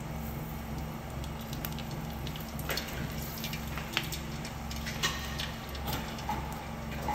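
Small test pieces of prawn cracker frying in a pan of oil: a light hissing sizzle with scattered small pops and crackles, over a steady low hum.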